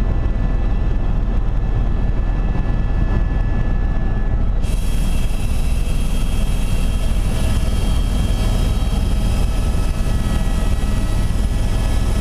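Helicopter running steadily: a constant heavy low drone with several high, steady whining tones above it, the sound turning brighter about four and a half seconds in.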